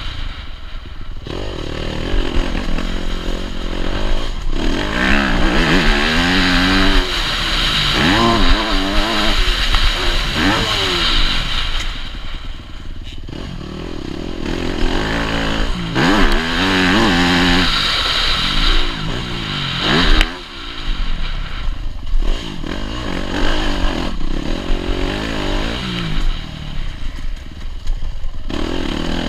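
Yamaha YZ250F four-stroke single-cylinder motocross bike, heard from onboard, revving hard: the engine pitch climbs again and again as it pulls through the gears, then drops off sharply when the throttle is shut.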